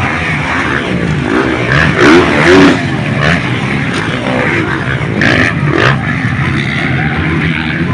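Motocross dirt bike engines running and revving, the pitch rising and falling as riders work the throttle.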